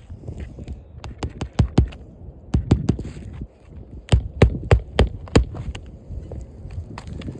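A hammer striking roofing nails while fastening a new asphalt shingle: about a dozen sharp blows in quick runs, the hardest ones clustered from about four to five and a half seconds in.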